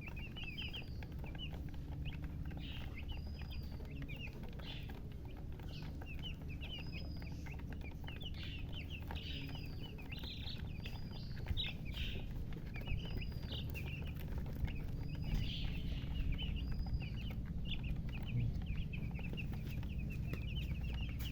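A group of newly hatched chicks peeping continuously: many short, high chirps overlapping, with a louder arched peep rising and falling every second or two. A steady low rumble sits underneath.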